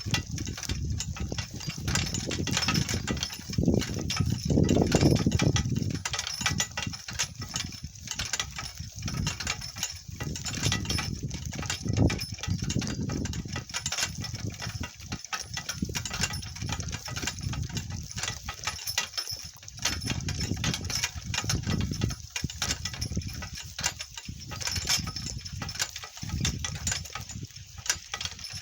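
Donkey-drawn cart rattling and jolting over rough, bumpy ground: a continuous run of knocks and clatter over a low rumble.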